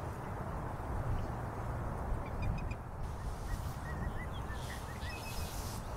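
A steady low rumble with small birds chirping faintly over it: a few short high notes about two seconds in, then a quicker run of them around the middle.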